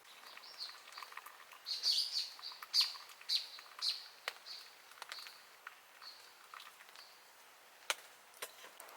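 A bird calling a run of short, high repeated notes about two a second, fading away after about seven seconds. Two sharp clicks follow near the end.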